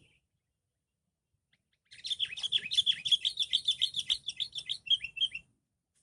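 A bird singing a fast, rapid run of high chirps that lasts about three and a half seconds, starting about two seconds in.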